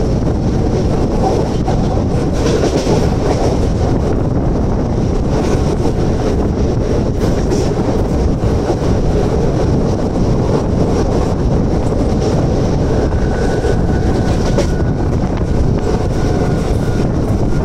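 Mumbai harbour-line suburban electric local train running along the track, heard from its open doorway: a steady, loud noise of the wheels on the rails. A faint high thin tone joins in for a few seconds near the end.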